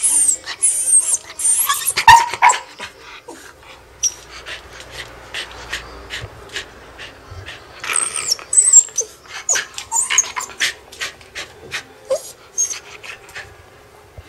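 Shiba Inu whining for a treat: thin high-pitched whines that rise and fall, in two spells, near the start and about eight seconds in. Many short sharp bursts of breath or sniffing come throughout.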